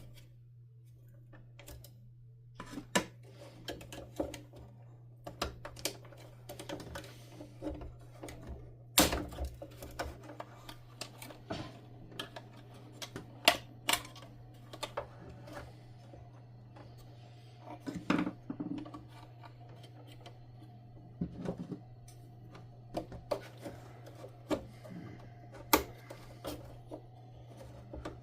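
Irregular clicks, snips and light knocks of hand tools and small plastic parts being worked on a bench, as small zip ties holding a vacuum cleaner's circuit board are cut and the board is handled. A steady low hum runs underneath.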